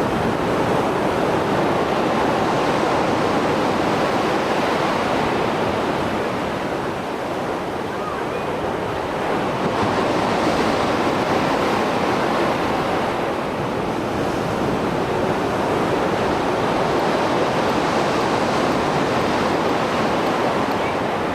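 Rough Mediterranean surf after a storm: a continuous wash of breaking waves, swelling and easing every few seconds.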